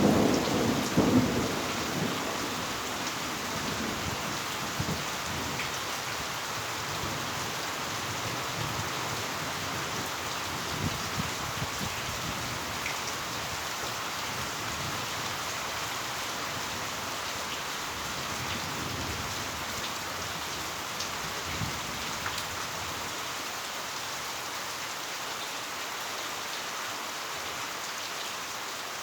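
Heavy rain falling steadily. A loud clap of thunder at the start rumbles away over the first couple of seconds, and fainter rolls of thunder follow later.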